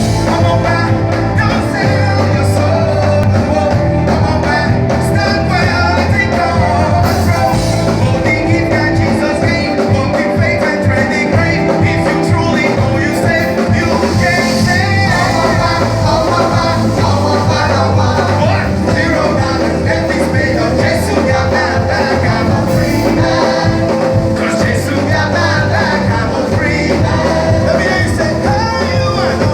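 Live church worship music: a full band with singing, playing loud and steady.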